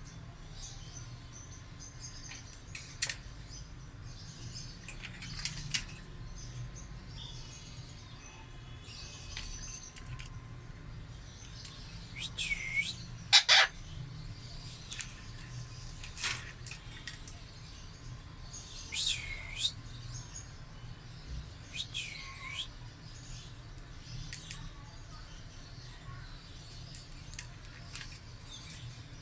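Pet green parrot calling: short shrill calls every few seconds, several of them swooping down in pitch and back up, with a few sharp clicks in between.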